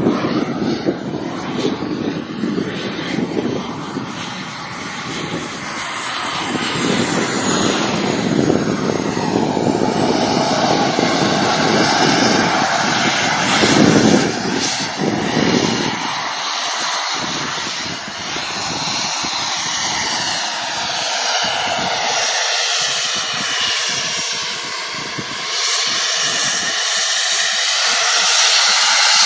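Fighter jet flying past, a loud, continuous jet-engine rush. Its tone sweeps slowly up and down as the aircraft moves, and the deep low end fades about halfway through.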